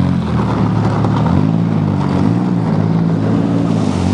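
Engine of a cut-down half Pontiac car running and being revved as it is driven, its pitch rising and falling repeatedly.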